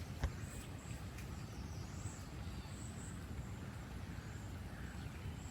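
Outdoor ambience: a steady low rumble with faint, short high-pitched chirps every second or so, and a single click about a quarter second in.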